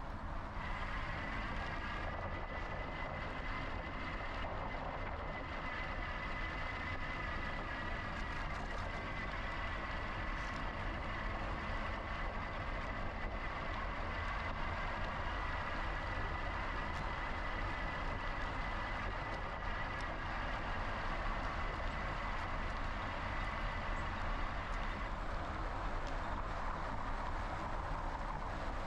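Riding noise from a moving e-bike: a steady low rumble of wind on the action camera's microphone and tyres on pavement. A high whine rises in the first couple of seconds, holds steady, and fades out a few seconds before the end.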